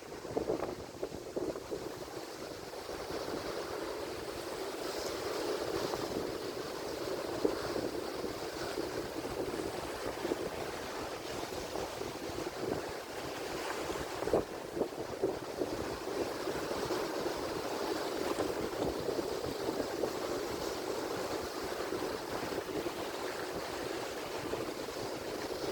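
Atlantic Ocean surf: waves washing and breaking in a steady rush, with a few brief louder peaks about fourteen seconds in.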